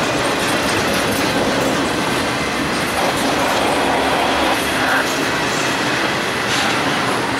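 Norfolk Southern intermodal freight train's flatcars loaded with highway trailers rolling past at speed: a loud, steady rumble of steel wheels on rail with clickety-clack from the rail joints.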